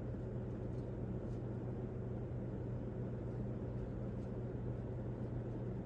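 Seagull Lighting Quality Max ceiling fan running on high speed: a steady low hum with a soft rush of air, the motor itself dead silent.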